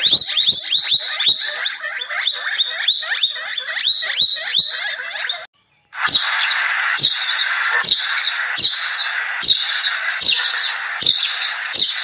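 Rapid high chirps, about four a second, break off briefly about halfway. Then a flock of Eurasian tree sparrows chirps and chatters while feeding, with sharp chips about once a second.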